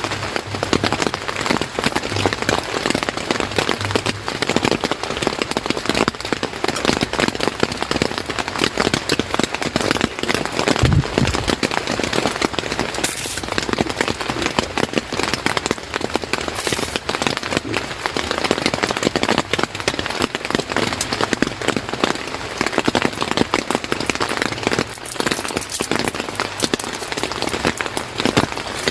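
Steady rain, a dense patter of many drops, with one brief low thump about eleven seconds in.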